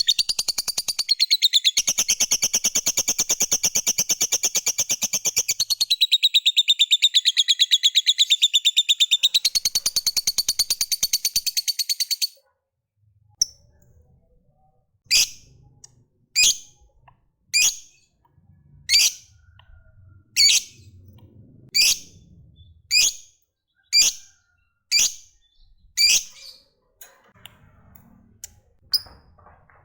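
Lovebird giving a long, very fast, high chattering trill ('ngekek panjang') for about twelve seconds that cuts off suddenly. After a short pause, single sharp chirps follow about once a second.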